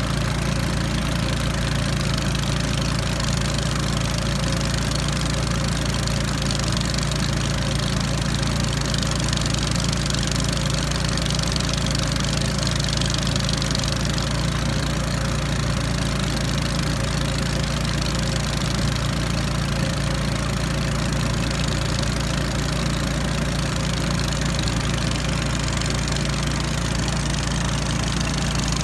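Small outboard motor of a Li River tourist raft running at a steady pace, heard from on board, with a constant low engine hum and a hiss of water and wind above it.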